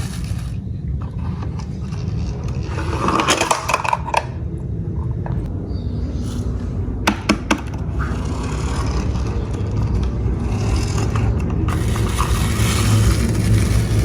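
Toy cars rolling and scraping along a track, with a steady low rumble, a cluster of sharp clicks about three seconds in and a couple more about seven seconds in.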